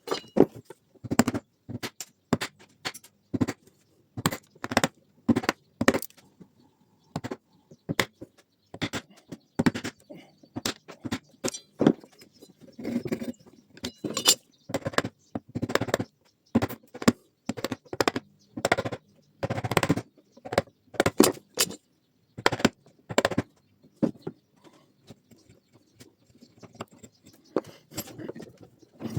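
Irregular knocks, taps and clinks of hand tools working a wooden tool handle and its metal ferrule in a vise, some blows heavier than others, with short pauses between.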